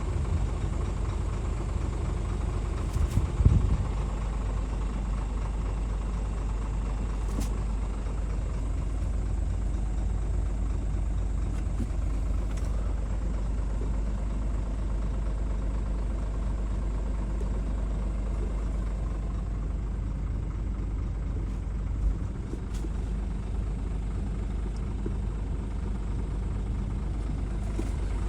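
Scania R450's diesel engine idling steadily, with a brief knock about three seconds in and a smaller one near the end.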